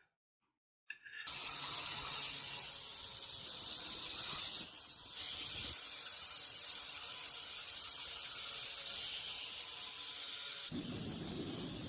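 A steady, high spraying hiss starts about a second in, dips briefly near the middle, and thickens with a lower rush near the end.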